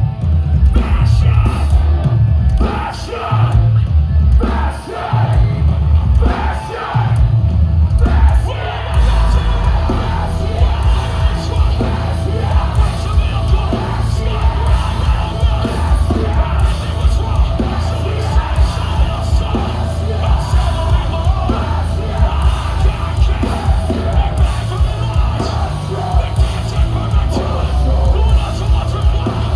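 Metalcore band playing live at full volume: heavy distorted guitars, pounding drums and screamed vocals, with a heavy, booming low end. For the first several seconds the band hits in stop-start bursts with short breaks, then from about nine seconds in it plays continuously.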